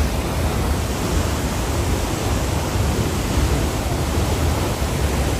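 Waterfall: falling water making a loud, steady rushing noise with a deep rumble underneath.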